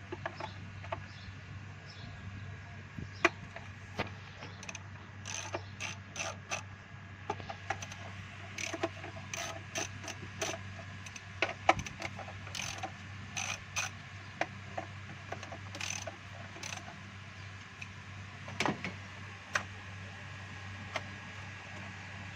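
Hand ratchet clicking in short runs with scattered sharp metal clicks and taps as 10 mm bolts are loosened from the engine's top cover, over a steady low hum.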